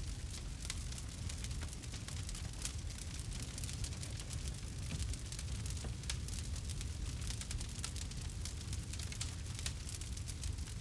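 Campfire crackling: many small, irregular pops and snaps of burning wood over a low steady rumble of the flames.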